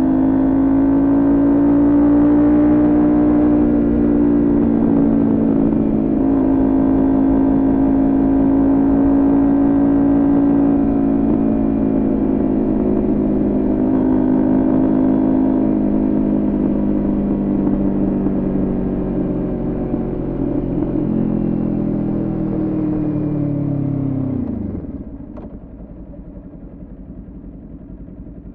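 Kawasaki Ninja 400's parallel-twin engine, fitted with a Coffman aftermarket exhaust, running at high revs under way, its pitch wavering a little. Near the end the throttle closes: the pitch drops steeply and the engine falls to a much quieter low-rev note.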